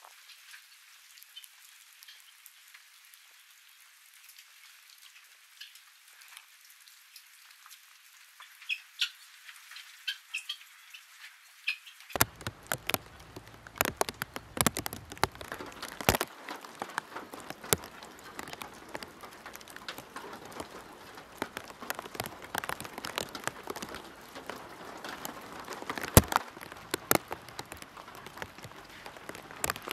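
Rain falling steadily, with many sharp drops striking wet surfaces. For about the first twelve seconds only a thin high hiss with scattered drips is heard, then the full sound of the rain comes in. There is one loud sharp knock near the end.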